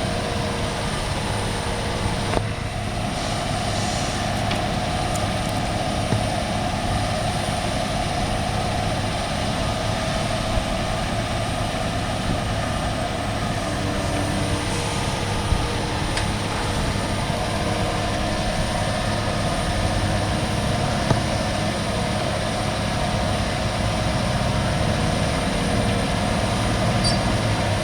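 A heavy vehicle engine running steadily at an even speed, with a few faint clicks.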